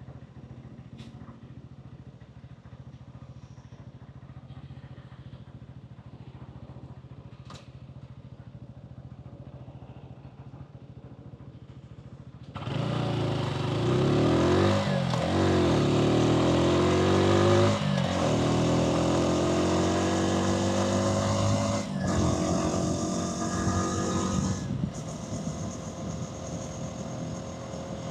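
Hansom Bike Venett 125cc motorcycle engine idling steadily, then about twelve seconds in pulling away, its pitch rising as it accelerates, with wind rushing over the microphone; it eases off near the end.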